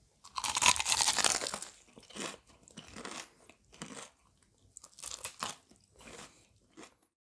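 A bite into a crisp battered, breadcrumbed fried chicken leg: a loud crackling crunch lasting over a second, then crunchy chewing in shorter bursts about once a second.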